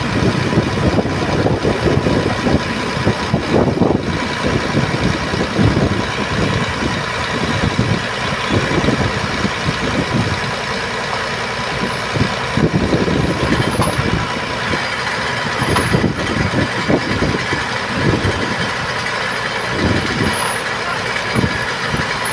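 Heavy diesel engine of an Iveco boom truck running, a loud, uneven rumble.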